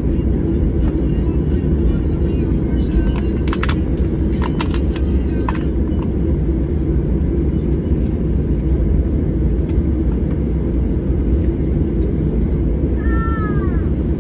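Airliner cabin noise after landing: a steady low rumble from the engines and airframe as the plane taxis, with a few sharp clicks about three to five seconds in.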